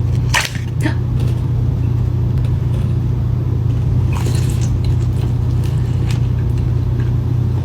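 Steady low rumble, such as an idling car heard from inside the cabin, under a few short crunchy bites of food: one about half a second in and a cluster around four seconds in.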